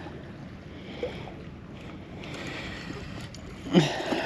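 Wind and water noise around an anchored small boat, with wind buffeting the microphone in a few swelling gusts. A brief louder sound comes near the end.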